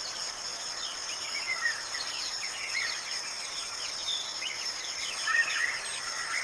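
Nature ambience: a steady high insect trill with scattered bird chirps, a couple of them clearer, near the second mark and again about five seconds in.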